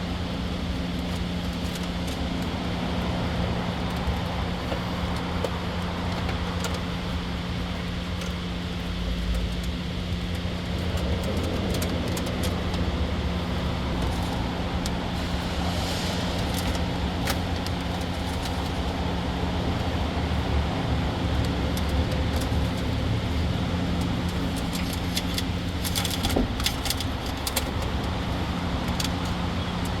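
Steady low hum of running machinery under scattered light clicks and rattles of a wiring harness being worked into place along the truck's harnesses. There is a cluster of rattles about halfway through and more near the end.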